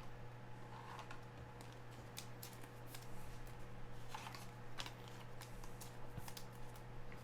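Sports trading cards being handled, with scattered soft clicks and rustles of cards and packaging, over a steady low electrical hum.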